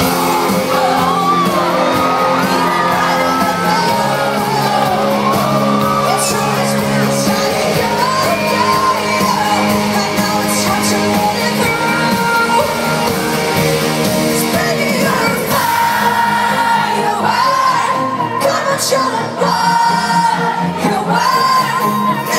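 Live pop concert music in a large arena, with held chords under singing and a crowd shouting, yelling and whooping.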